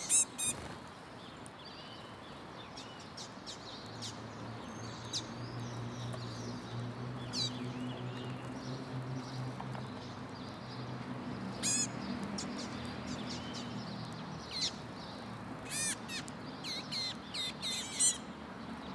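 Common waxbill calling: short, high chirps at irregular intervals, coming in quick clusters near the end. A low steady hum runs underneath through the middle.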